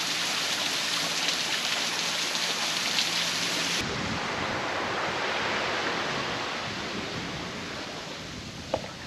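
Steady hiss of falling and running water from a small waterfall and its pools. About four seconds in it changes abruptly to a duller rush with more low rumble, and a sharp tap comes near the end.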